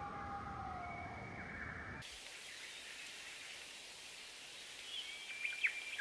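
Wild birds calling. First come drawn-out whistling calls, one sliding slightly lower, over a low rumble. About two seconds in the sound switches to an even hiss of outdoor background, with a few short, sharp bird chirps near the end.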